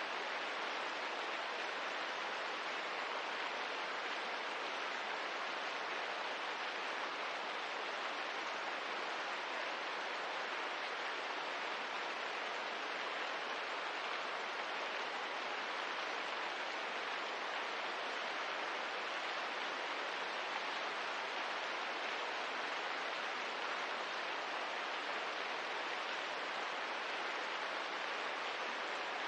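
Steady, even rain ambience, a continuous hiss without distinct drops, crackles or changes.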